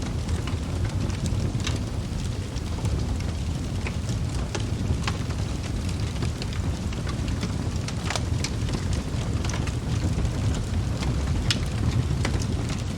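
Wood fire burning in a fireplace: a steady low rumble of flames with scattered sharp crackles and pops from the burning logs, a few louder pops among them.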